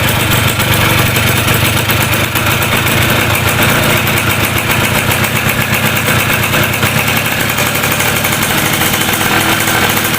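Freshly rebuilt Yamaha F1ZR single-cylinder two-stroke motorcycle engine running steadily at idle, with a fast even firing rhythm.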